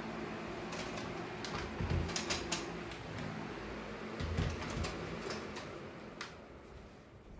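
Lasko 3733 box fan running with a steady hum over a rush of air, broken by a run of sharp clicks and a few dull knocks in the middle; its noise then fades away near the end.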